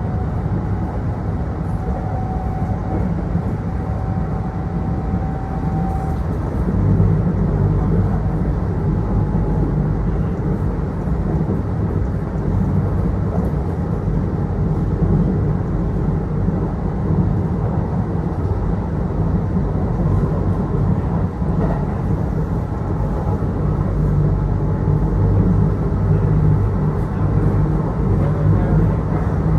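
Running noise heard inside a Kintetsu Osaka Line local train car: a steady low rumble of wheels on the rails and the car in motion. A faint steady tone sits over it for the first six seconds, and the noise grows slightly louder about seven seconds in.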